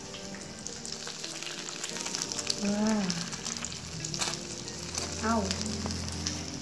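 Meat burger patties frying in oil in a pan on a gas burner, with a steady sizzle full of fine crackles.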